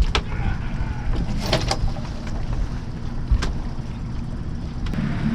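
The sailboat's motor running steadily with a low rumble, over wind noise, with a few sharp knocks on the boat.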